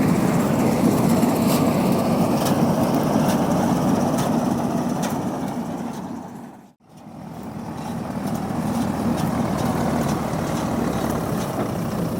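Farm machinery's diesel engine running steadily. It fades out to silence about seven seconds in, then fades back up.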